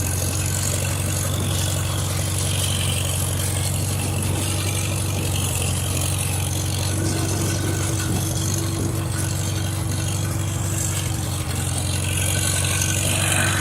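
1951 Farmall H tractor's four-cylinder gasoline engine running steadily, a little louder near the end.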